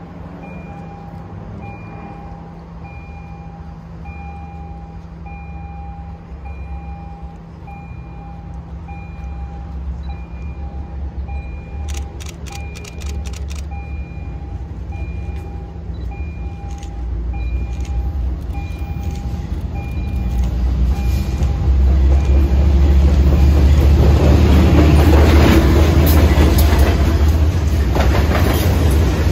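Diesel freight train approaching, its low rumble building until the locomotive reaches the platform about two-thirds of the way through. After that, covered hopper cars roll past with loud wheel and rail noise. A faint, evenly repeating beep sounds under the approach and fades out as the train arrives.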